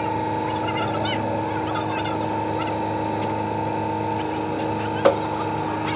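A steady machine hum with several constant tones, and a single sharp knock about five seconds in.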